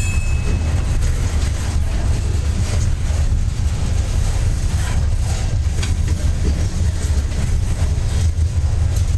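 Freight train cars rolling past close by: a steady low rumble with irregular clicks and knocks from the wheels on the rails.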